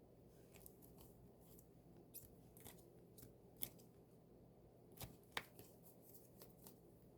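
Faint scattered clicks and light taps from handling a K-pop album's packaging and its contents, with the strongest clicks about halfway through and twice more about two-thirds of the way in.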